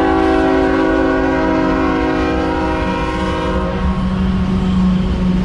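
Locomotive air horn sounding one long blast that fades out a little under four seconds in, over the steady low rumble of the train.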